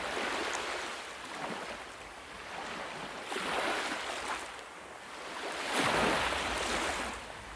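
Ocean waves washing in, swelling and falling back three times, with the last surge the loudest.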